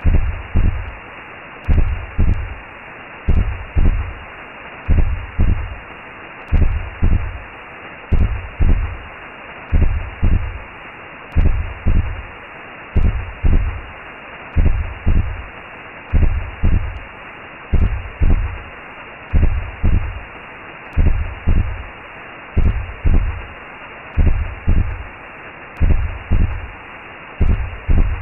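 Recreated womb sound: a slow heartbeat of paired low thumps, one lub-dub about every 1.6 seconds, over a steady muffled whooshing hiss.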